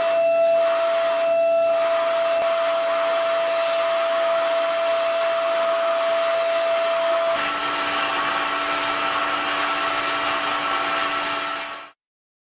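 A machine's motor running with a steady whirring noise and a held whine that changes pitch about seven seconds in, then cuts off suddenly near the end.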